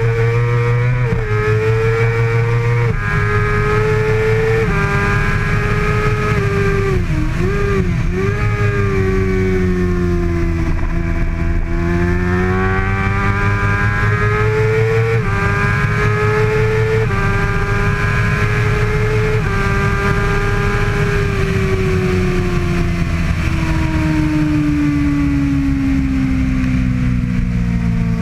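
2013 Kawasaki ZX-6R (636) inline-four at racing revs, climbing through the gears with a drop in pitch at each upshift. About a third of the way in the revs dip and flicker through a few quick downshifts. In the last quarter the engine note slides steadily down as the bike slows. Steady wind and road rumble lie underneath.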